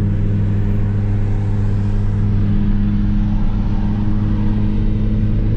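Turbocharged car engine with a catless, straight-piped exhaust, heard from inside the cabin, running under way at a steady, nearly constant engine speed.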